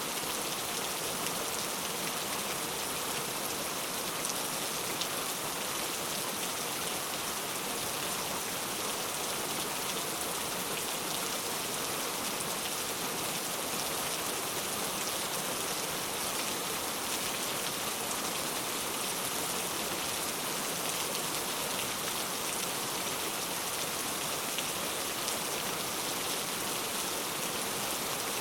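Steady rainfall, an even hiss of many raindrops hitting a surface, without let-up.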